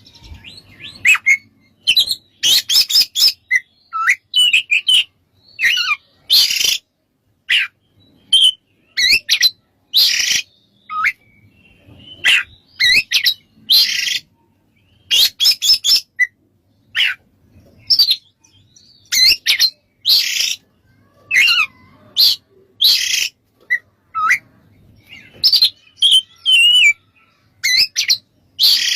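Oriental magpie-robin singing a loud, varied song. Whistled, gliding notes alternate with harsh, buzzy chattering bursts, in quick phrases separated by short pauses.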